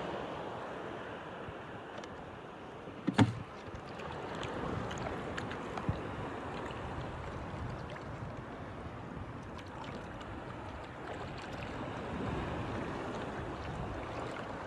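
Sea water washing against a small fishing boat, a steady rushing wash. A single sharp knock sounds about three seconds in, and a smaller click a few seconds later.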